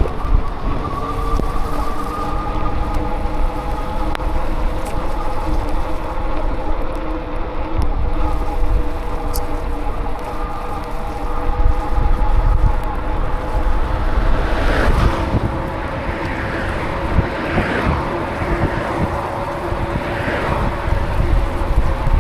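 Wind buffeting the microphone on a moving ride through wet streets, a heavy low rumble, with a steady hum of several tones underneath and a brighter rushing in the last third.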